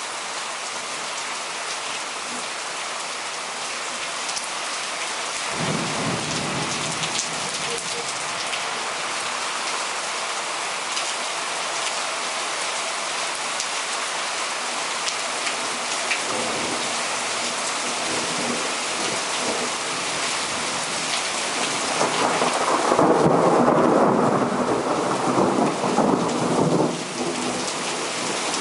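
Heavy rain pouring steadily during a frontal thunderstorm. Thunder rumbles in about six seconds in, and a louder peal of thunder, the loudest sound here, rolls from about 23 s and stops suddenly about 27 s in.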